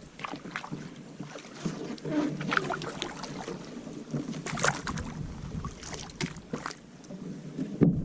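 Solo Kevlar canoe on a creek, a Wenonah Prism: irregular water splashes and knocks from the paddle and hull.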